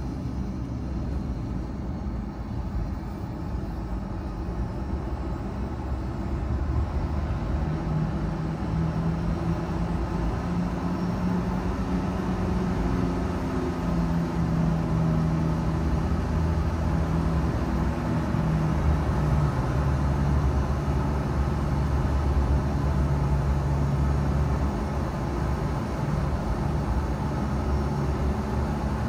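Car driving on the road: steady engine and tyre rumble, with the engine hum shifting in pitch midway as the car changes speed.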